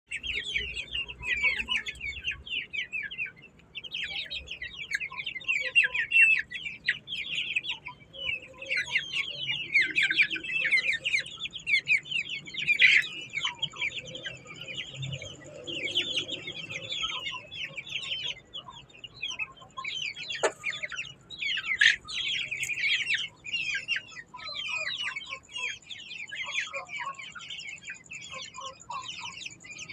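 A brood of chicks peeping, many short high chirps overlapping in a constant chorus.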